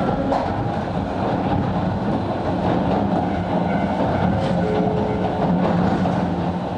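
Sangi Railway Hokusei Line 270-series narrow-gauge electric train running steadily, with a low motor hum over the rumble and occasional clicks of the wheels over rail joints.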